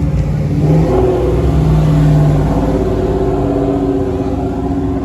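Car engines running, with steady low engine notes that shift slightly in pitch about a second in.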